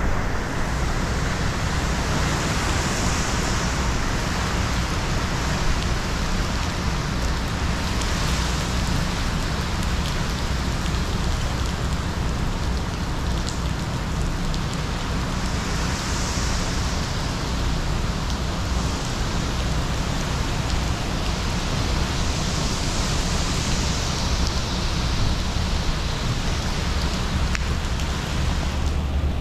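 Heavy hurricane rain and wind: a steady, loud hiss of rain pouring onto the pool and deck over a low wind rumble, swelling with gusts a few times.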